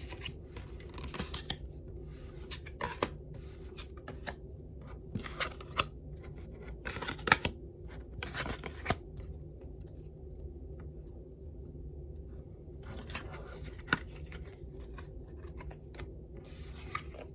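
Traditional tarot deck being handled, with cards shuffled and slid against one another in irregular papery scrapes and sharp snaps, over a steady low hum.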